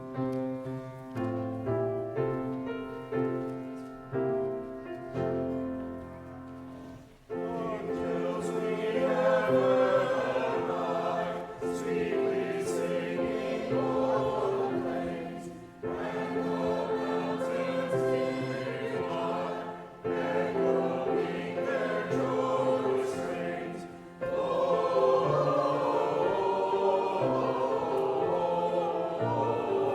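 Piano playing the last bars of a carol's introduction, then about seven seconds in a congregation starts singing the carol with piano accompaniment, phrase by phrase with short breaks between lines.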